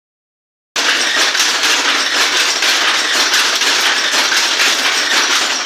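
Weaving loom running at speed, a dense, steady mechanical clatter of rapid clicks and knocks that starts abruptly about a second in.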